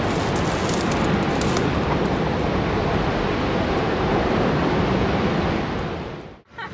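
A steady, loud rushing roar of noise with no pitch to it, fading out about six seconds in.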